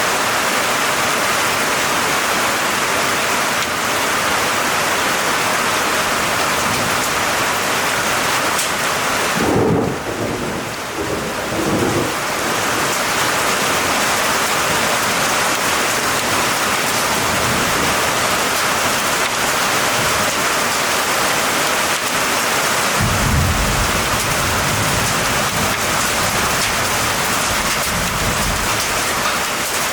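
Steady rain, with thunder rumbling twice: a short low roll about a third of the way in and a longer low rumble through the last quarter.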